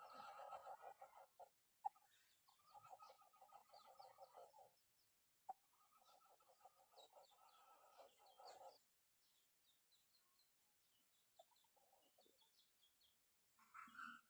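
Chickens calling faintly: three drawn-out calls of two to three seconds each, followed by scattered short high chirps.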